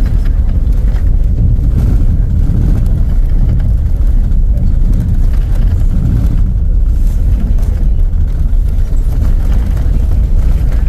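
A moving road vehicle: a steady, loud, low rumble of engine and road noise.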